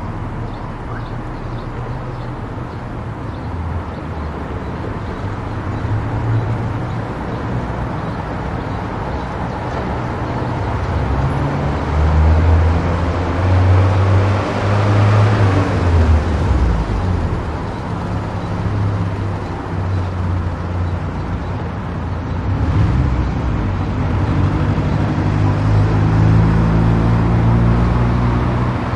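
A car driving at speed on a highway: steady tyre and road noise with a low drone from the engine and drivetrain. The noise swells and fades about halfway through.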